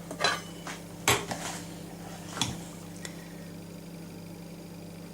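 Utensil clinks and scrapes against a bowl and muffin pan as birdseed cake mixture of seed, oats and fat is spooned into the moulds: about four sharp knocks in the first three seconds, over a steady low hum.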